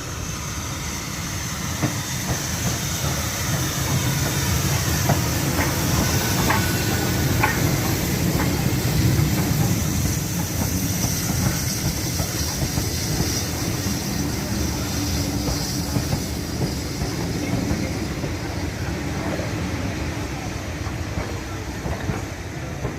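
Steam-hauled train moving along the track: a steady rumble of the carriages that swells and then eases, with clicks of the wheels over the rail joints and a brief wheel squeal about six to seven seconds in.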